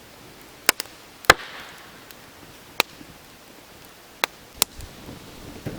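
Campfire of damp firewood burning, with sharp isolated pops and cracks from the wood, about six in all, the loudest a little over a second in.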